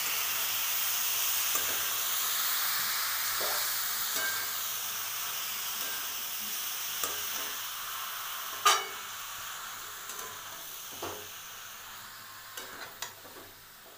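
Chopped mushrooms frying in masala in a metal kadai: a steady sizzle that slowly fades, with a spatula stirring and scraping against the pan and occasional sharp clinks, the loudest about nine seconds in.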